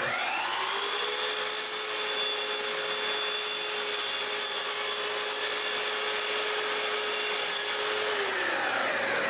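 A power saw spins up, runs steadily while cutting wood, and winds down about eight seconds in. A second, higher motor tone keeps running through the end.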